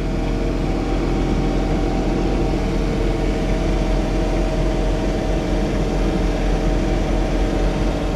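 John Deere 3046R compact tractor's diesel engine running steadily, heard from inside the cab, with a constant low hum.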